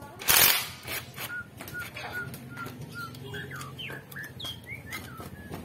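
Birds chirping: a run of short, evenly spaced chirps, then varied rising and falling calls. A brief loud burst of noise comes just before the chirping starts, with faint scattered clicks through the rest.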